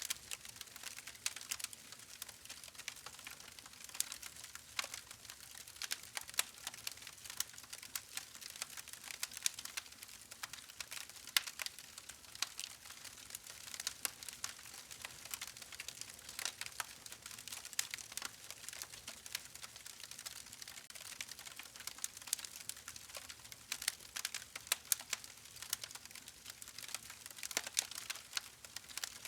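Wood fire crackling: a dense, irregular run of small sharp pops and snaps over a soft hiss, with a few louder cracks scattered through.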